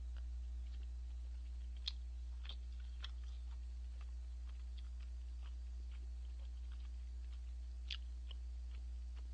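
Someone chewing tteokbokki (chewy rice cakes) close to the microphone, with scattered soft clicks of mouth and utensil. Two sharper clicks come about two seconds in and near the end, over a steady low hum.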